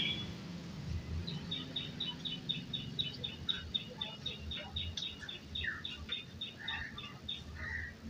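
A bird chirping: a quick, even run of short high chirps, a little over four a second, starting about a second in and stopping near the end, with a few lower calls mixed in toward the end.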